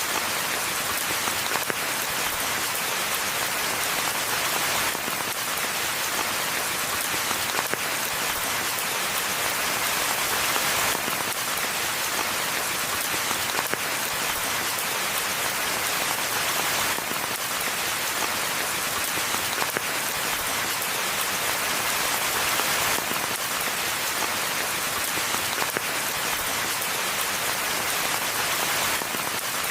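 Steady rainfall in a forest: an even, unbroken hiss of falling drops.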